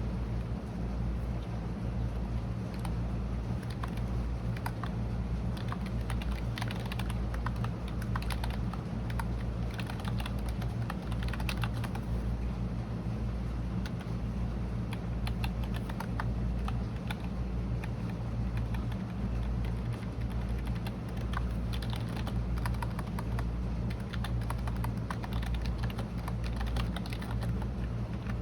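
Computer keyboard typing: a continuous run of quick, irregular key clicks, over a steady low hum.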